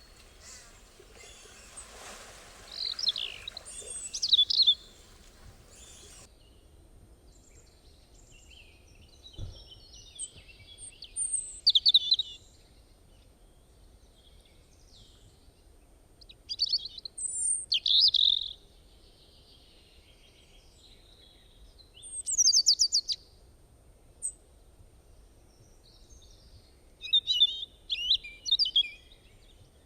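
A songbird singing short bouts of high, varied chirps and trills, with pauses of a few seconds between bouts.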